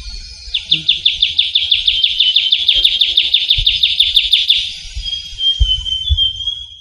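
Trilling shrike-babbler singing: a fast, even trill of about eight quick downward-slurred notes a second that lasts about four seconds. Near the end, a thin steady high tone.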